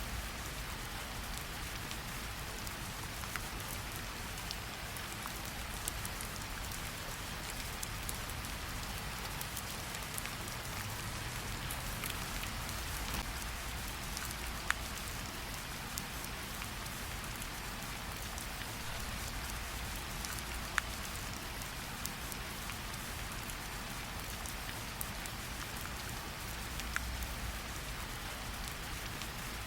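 Steady gentle rain falling on tree leaves: an even hiss with many scattered drips, a few louder single drops standing out now and then.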